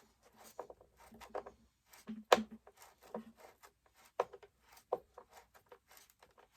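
Irregular clicks and knocks of hand tools on a kayak's outfitting hardware as it is tightened back down, with one sharper knock a little over two seconds in.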